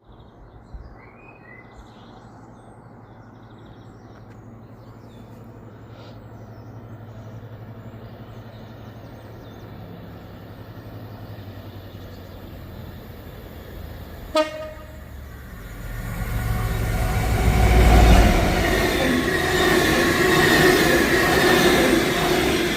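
Train approaching with a low hum that builds slowly. About two-thirds of the way through it gives one short blast on its horn, then passes close by with a loud rumble of wheels and engine.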